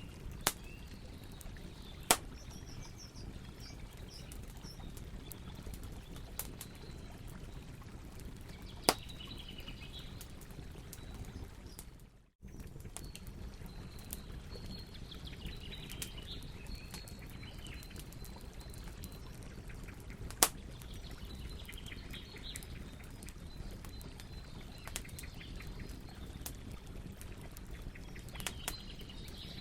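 Campfire burning with a steady low rush and sharp crackling pops of burning wood, a handful of them loud. Birds chirp faintly in the background. The sound drops out for a moment near the middle.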